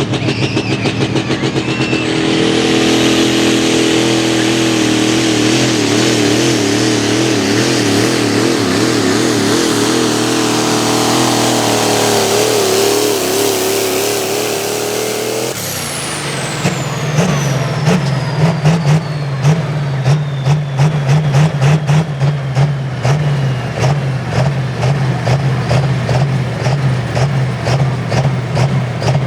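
A diesel 4x4 pulling truck's turbocharged engine runs flat out under load for about fifteen seconds, with a wavering tone as the tyres spin. Then the throttle is let off at the end of the pull: the turbo whine slides down in pitch as it spools down, while the engine runs on with an uneven, pulsing lope.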